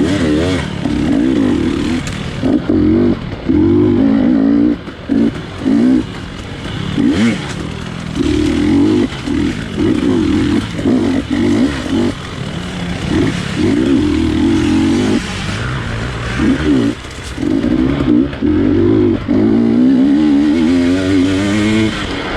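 GasGas 250 dirt bike engine revving hard and cutting off over and over, its pitch rising and falling with the throttle.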